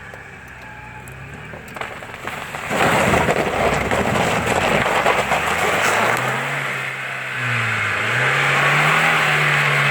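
UAZ Hunter ploughing into a mud puddle: a loud rush of splashing water and mud starts about three seconds in. Then the engine revs up and down with the tyres churning as the vehicle bogs down and gets stuck.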